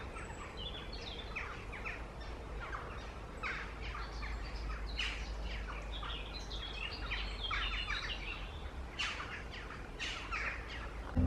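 Several songbirds singing at once, a dense run of quick chirps and trills, over a low steady rumble.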